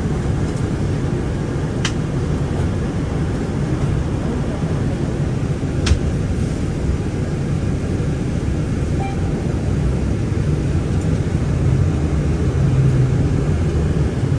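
City bus running, heard from inside the cabin: a steady low engine and road rumble, with two sharp clicks or knocks, about two seconds in and again about four seconds later.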